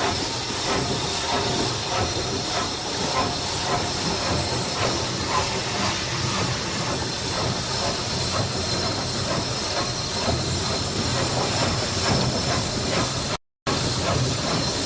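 GER N7 0-6-2T steam tank locomotive working, a steady hiss of steam over the running noise of the train. Near the end the sound cuts out for a moment.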